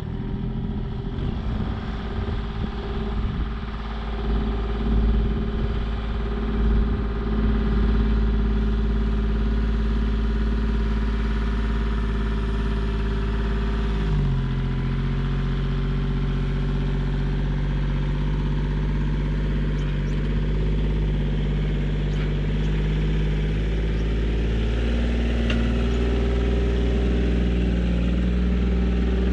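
Compact tractor engine running steadily. Its pitch steps down about halfway through and comes back up near the end as the engine speed changes.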